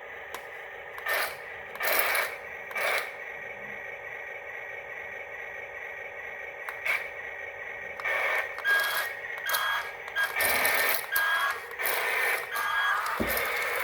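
Steady whine of a miniature excavator's small electric motors, with repeated short scraping bursts of the bucket working sand. The bursts come more often in the second half.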